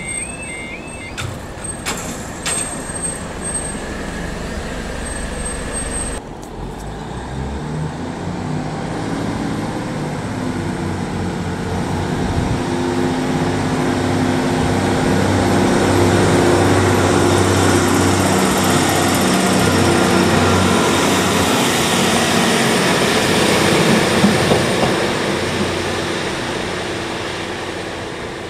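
Level-crossing alarm wailing in two tones, cutting off about a second in. Then a Class 150 Sprinter diesel multiple unit pulls away from the station, its engines rising in pitch in steps and growing louder, then easing off near the end.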